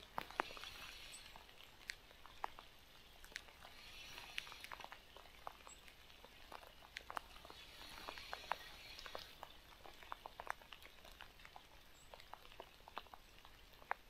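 Faint spinning reel wound in short spells of about a second, repeating every four seconds or so as a jig lure is worked along the bottom in steps, with scattered light ticks in between.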